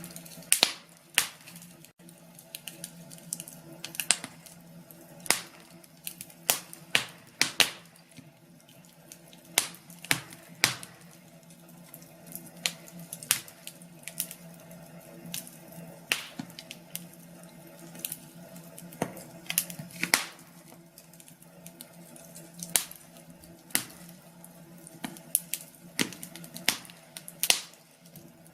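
Wood fire crackling in a fireplace, with irregular sharp pops and snaps, some in quick clusters, over a faint steady hum.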